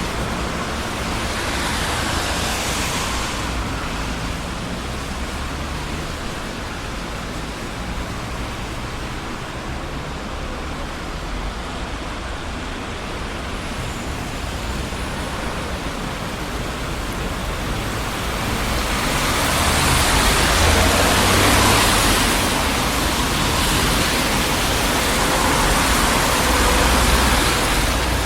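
Busy city street traffic: a steady rush of tyre and engine noise, with vehicles passing close by and swelling louder about two seconds in and again through the last third.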